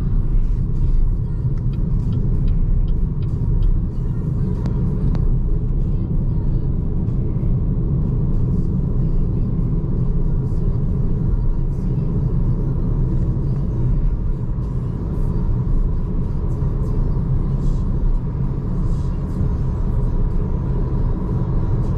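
Steady low road and tyre rumble of a BYD Seagull electric hatchback cruising on an expressway, heard from inside the cabin, with a faint steady high whine running under it.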